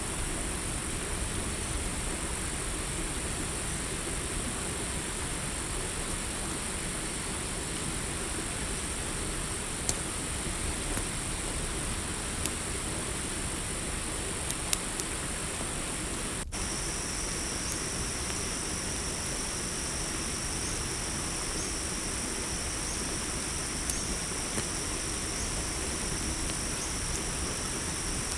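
Campfire crackling with a few sharp pops over a steady hiss, under a steady chorus of crickets; about halfway a brief gap is followed by a second, lower cricket trill joining in.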